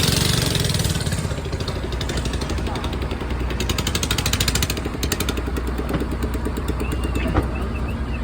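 A boat's motor running steadily, with a rapid even pulsing from about two seconds in to about five seconds in.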